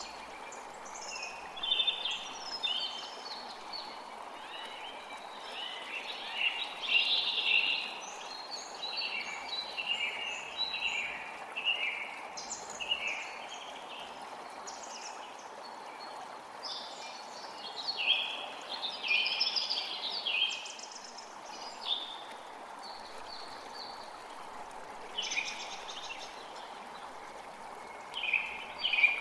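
Forest creek water running steadily, with songbirds singing frequent short phrases over it.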